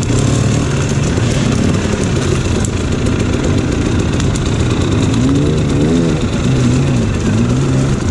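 Dirt bike engine revving up and down, its pitch rising and falling with repeated throttle changes, the sharpest rev about five to six seconds in.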